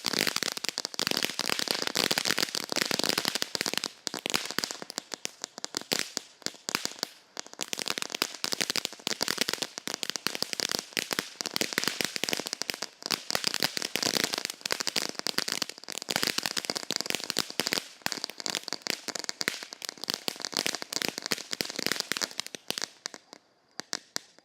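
Dakota Snow Storm firework fountain crackling: a dense, continuous stream of sharp little pops over a hiss, thinning out and dying away just before the end.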